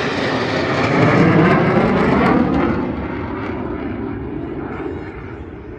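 F-16 fighter jets making a low pass, a loud rushing jet noise whose pitch slides downward as they go by. It is loudest between about one and two and a half seconds in, then fades away.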